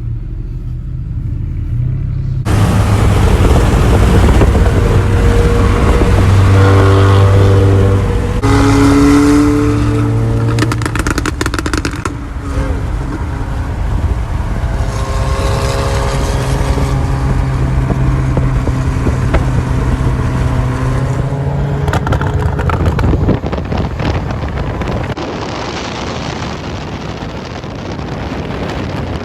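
A car engine pulling hard under acceleration, its note shifting several times, over heavy road and wind noise.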